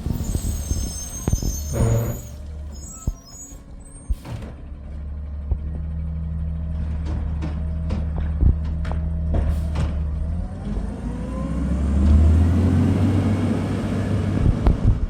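Garbage truck's diesel engine running, with high-pitched brake squeals and a few knocks in the first seconds, a steady hum through the middle, and the engine rising in pitch near the end.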